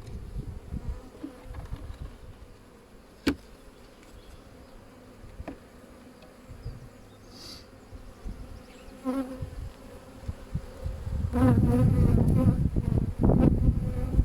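Honeybees buzzing around an open hive, a steady hum with a bee passing close about nine seconds in and a louder, pitched buzz near the end as bees fly close past. A single sharp click about three seconds in.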